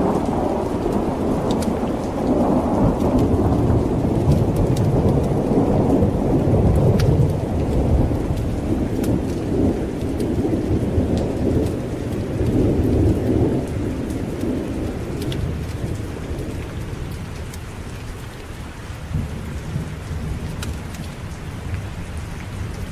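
Rolling thunder rumbling heavily for most of the first half, then slowly fading away, over steady rain. A few sharp ticks are scattered through it.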